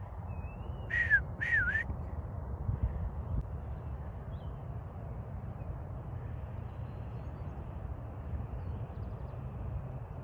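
Two short bird calls about a second in, each dipping and rising in pitch, over a steady low rumble.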